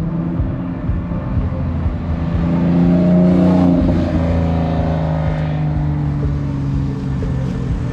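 A car engine running, its pitch rising about three seconds in and then falling away slowly.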